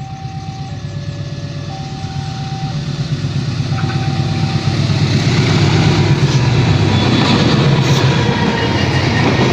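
Diesel locomotive hauling a train, approaching with its engine rumble growing steadily louder until it dominates about halfway in. Over the first half, a two-tone warning alarm alternates between a high and a low tone about once a second, typical of a railway level crossing.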